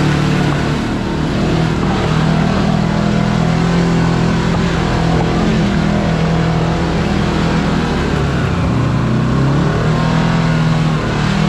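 Kawasaki KRX4 1000 side-by-side's engine running steadily as it drives the trail. The engine note shifts and dips briefly about eight seconds in.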